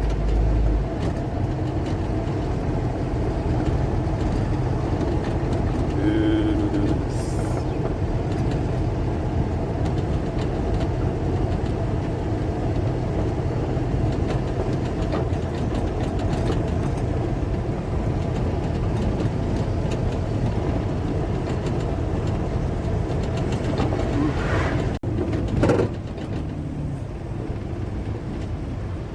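Car driving, with steady engine and road noise. A short pitched sound comes about six seconds in, and near the end the noise drops out for a moment and then runs a little quieter.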